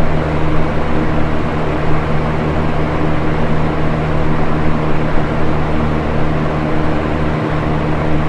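Electric box fan running steadily: an even whoosh of moving air over a low motor hum.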